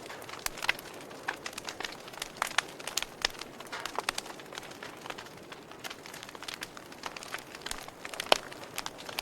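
Wood fire crackling in a fireplace: irregular sharp pops and snaps over a steady soft hiss, with one louder pop near the end.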